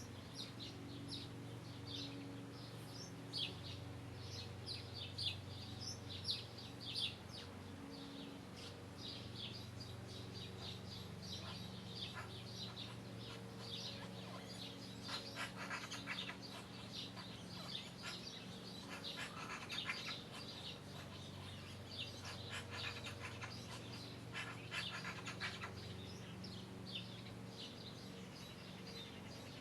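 Many small birds chirping, with short high notes throughout and a few rapid trills, over a steady low hum.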